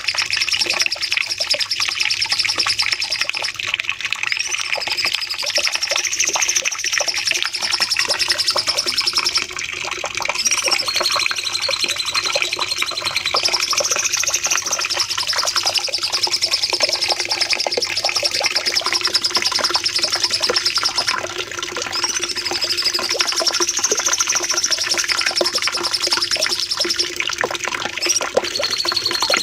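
Cucak cungkok singing its long 'nembak' song: continuous rapid high-pitched trills in long phrases, gliding slightly up and down, with brief breaks between phrases.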